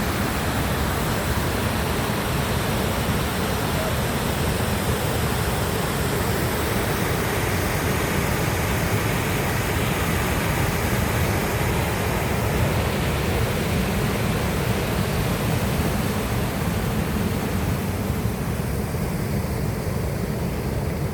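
Steady, loud rushing of water, like a waterfall or fast river close by, with no breaks or separate events.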